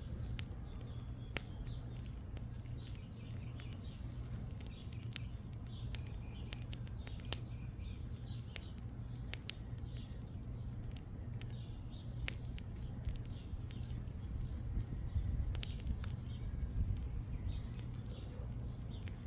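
Small backyard campfire crackling, with sharp pops at irregular intervals, over a steady low rumble; birds chirp faintly in the background.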